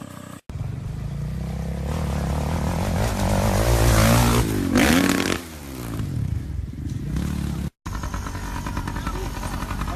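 Motorcycle engine revving harder and louder, loudest about four to five seconds in as it passes close, then dropping away in pitch. After a brief cut near the end, another motorcycle engine runs at a steadier pitch.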